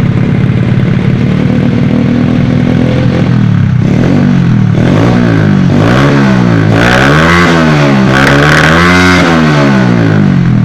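Honda Astrea Prima's single-cylinder four-stroke engine idling steadily, then revved up and down about four times from about four seconds in.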